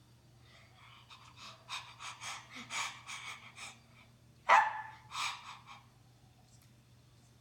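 A quick run of short, panting huffs that grow louder, then one sharp, loud bark and a weaker second bark, dog-like.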